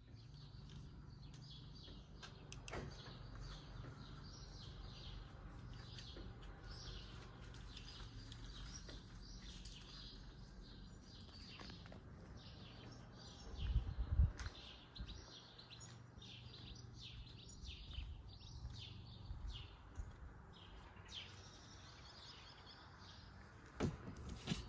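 Faint outdoor ambience: small birds chirping over and over, with a low steady hum underneath and a low thud about halfway through.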